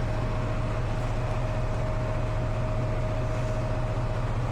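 Parked semi truck's diesel engine idling: a steady low hum, with a thin steady whine over it that stops about four seconds in.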